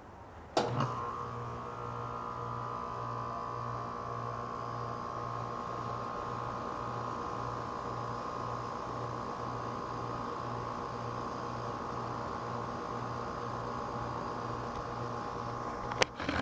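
American Standard Silver series heat pump outdoor unit running in heat mode, just after startup: a steady electrical hum with a few held tones and a low throb about twice a second, coming in suddenly about half a second in.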